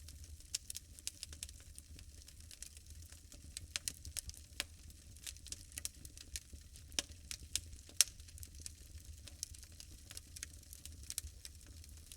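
Wood bonfire crackling, with irregular sharp pops and a few louder snaps, over a low steady rumble.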